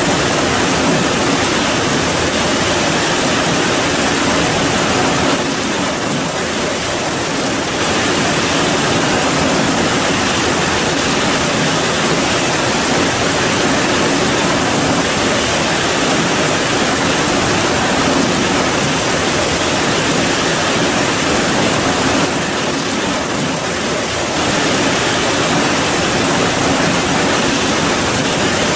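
Steady heavy rain falling, a dense even hiss that eases slightly twice for a couple of seconds.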